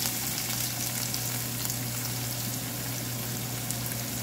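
Chopped red onion and minced garlic sizzling steadily in hot oil in a frying pan, with fine crackling pops, over a low steady hum.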